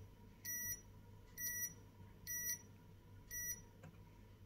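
Multimeter continuity buzzer beeping four times, short beeps about a second apart, as the probes touch points on the iPhone XR logic board: each beep signals a short to ground at a capacitor.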